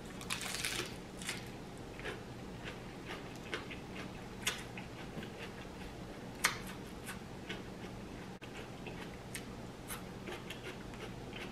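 A crisp bite into lettuce about half a second in, then chewing with irregular, scattered wet mouth clicks and smacks.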